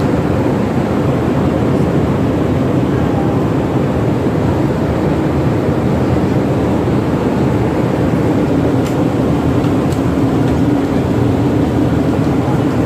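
Steady, unbroken drone of the Pelni passenger ship KM Kelud under way: engines and machinery running with a constant low hum.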